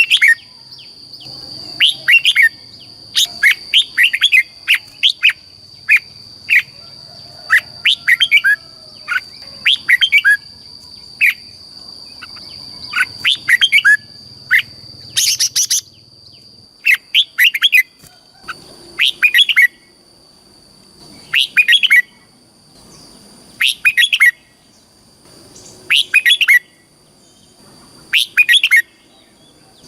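Red-whiskered bulbul singing short, repeated song phrases. The phrases come close together at first, then about every two and a half seconds. A steady high whine runs under the first half and stops about halfway.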